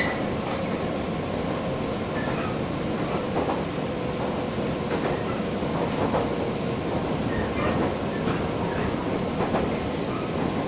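Passenger train running, heard from inside the carriage: a steady rumble with scattered clicks of the wheels over the rail joints and a faint steady hum.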